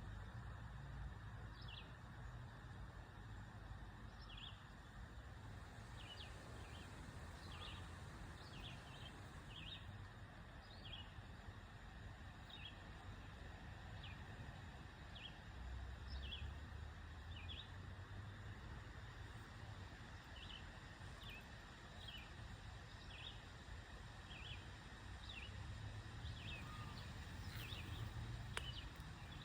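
A bird's short, high chirps repeating irregularly, about one every second or so, over a faint steady hiss and low rumble of background noise.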